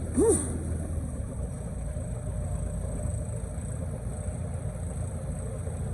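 Tour boat's engine running steadily with a low rumble. A brief rising-and-falling call cuts in about a quarter second in.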